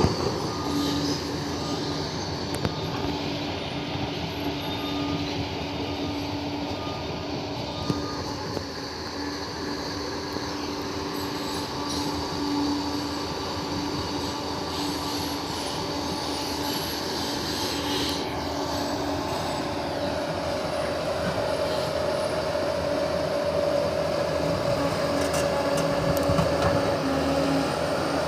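Crawler bulldozer working: its diesel engine runs under a steady load while the steel tracks squeal and clank. A higher steady whine comes in about two-thirds of the way through.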